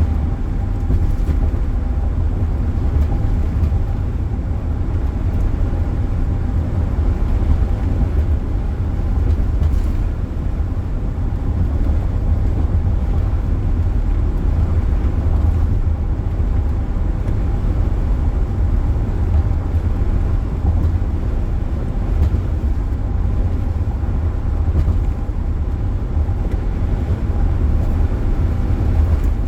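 Steady road and engine noise heard inside a car's cabin while driving at highway speed: a loud, even low rumble without breaks.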